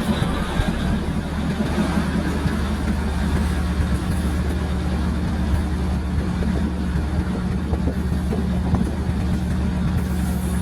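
Diesel train engine running with a steady low drone.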